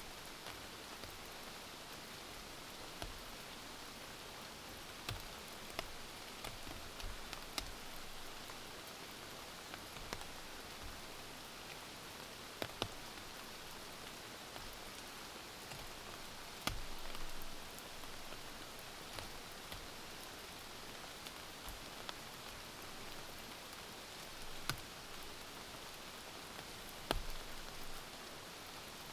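Steady rain falling, with single louder drops ticking sharply every few seconds.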